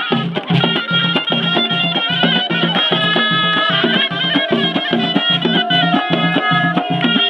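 Ghaita, the Moroccan double-reed shawm, playing a folk melody with long held notes over a steady low percussion beat.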